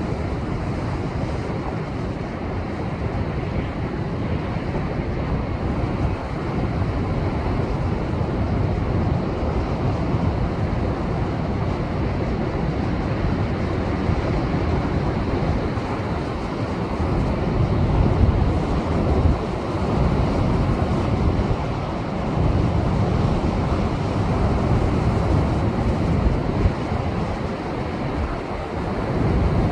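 Heavy post-typhoon surf breaking and surging against a rocky shore as a continuous deep rush of water, swelling louder past the middle as a bigger wave comes in.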